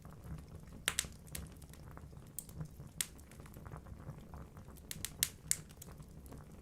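Wood fire burning in a fireplace: logs crackling with scattered sharp pops, a few louder snaps about a second in, at three seconds and in a quick cluster near the end, over a low steady rumble of the flames.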